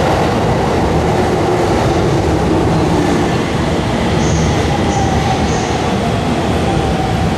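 Electric train running on the tracks close by, a steady loud rumble of wheels on rail, with three short high squeaks about halfway through.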